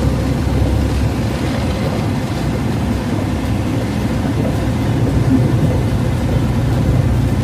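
Steady rumble of a moving car heard from inside the cabin: engine and road noise with the windows shut.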